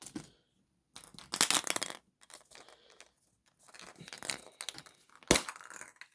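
Wrapper rustling, crinkling and tearing as a surprise egg is unwrapped, in irregular bursts, with one sharp click about five seconds in.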